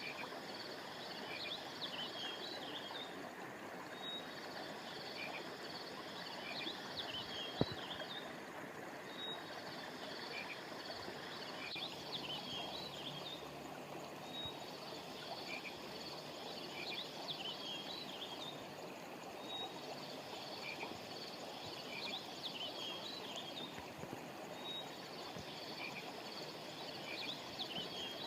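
River water flowing steadily, with a high chirping call phrase repeating about every five seconds over it. A single click about a quarter of the way in.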